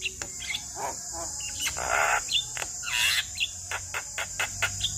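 Male Javan myna singing a fast, varied chatter of short sharp notes and clicks, broken by harsh rasping calls about two and three seconds in.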